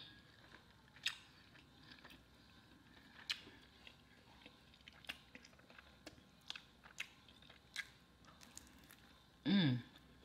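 Close-miked chewing of a fried Philly cheesesteak egg roll: wet mouth clicks and small crunches about once a second, with a short hummed voice sound near the end.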